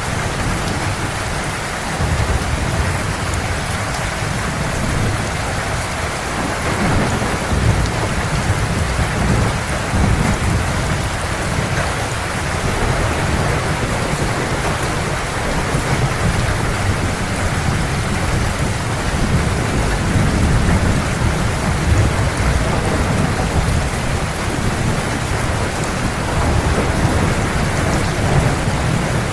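Heavy rain falling steadily, with a low rolling thunder rumble underneath that swells about two seconds in and keeps rolling.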